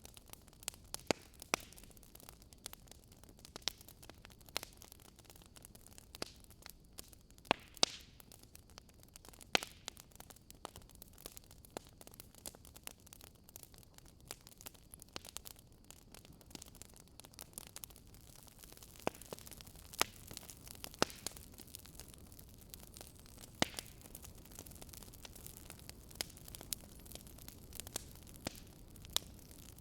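Campfire crackling: irregular sharp pops and snaps from the burning wood over a soft steady hiss.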